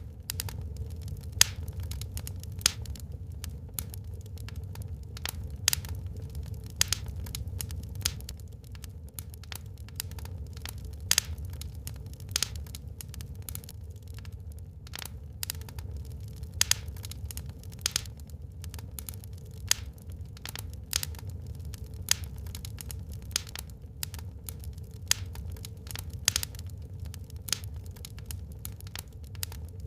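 Wood fire burning in a fireplace, crackling with irregular sharp pops and snaps, several a second, some much louder than the rest, over a steady low rumble.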